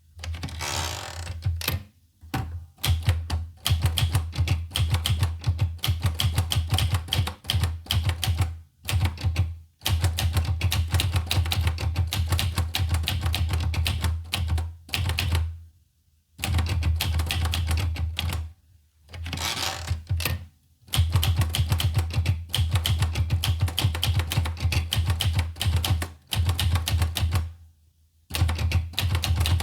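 Olivetti Lettera 25 portable manual typewriter being typed on, fast runs of key strikes with several short pauses of about a second between them.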